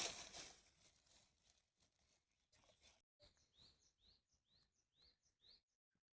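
A bird calling faintly outdoors: a run of about six short, high, rising chirps about half a second apart, starting around the middle. Before that, a brief rustling noise fades out within the first second.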